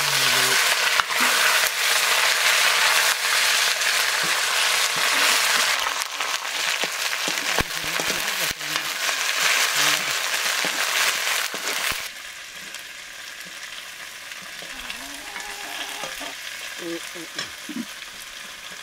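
Chopped cabbage sizzling loudly in hot oil in a blackened iron karahi (wok) as it is stirred with a metal ladle, with a few sharp ladle clicks against the pan. The sizzle is loudest over the first several seconds and drops off abruptly about twelve seconds in.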